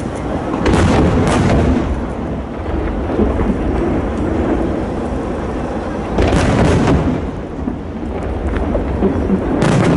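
Aerial fireworks shells bursting overhead with deep booms over a continuous rolling rumble. The heaviest bursts come about a second in, about six seconds in, and again at the end.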